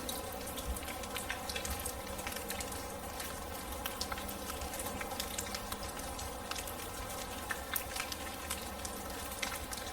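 Rain falling steadily, with many scattered drops pattering and dripping as small sharp ticks over an even hiss.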